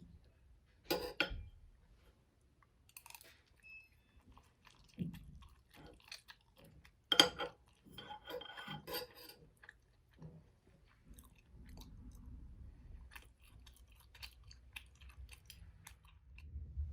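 Small close-up handling sounds: scattered clicks, taps and crunchy crackles, with two louder knocks about one second and seven seconds in.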